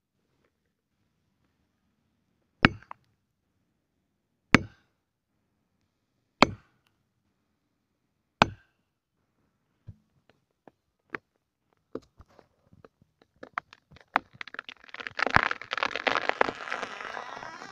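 Four heavy blows on wood, evenly spaced about two seconds apart, then scattered snaps that build into a dense crackling of breaking wood near the end.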